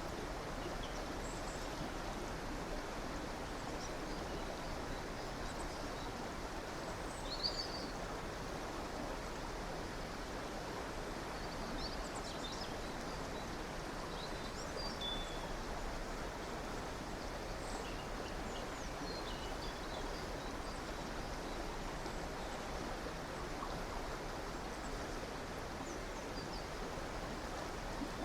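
A river or stream running steadily, with small birds chirping here and there above the water, one louder call about seven seconds in.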